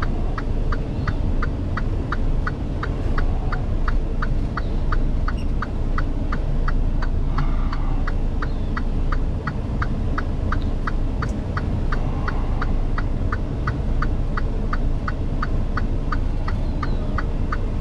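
Semi truck reversing: a reverse warning beeps rapidly and evenly, about three short high beeps a second, over the low steady running of the diesel engine.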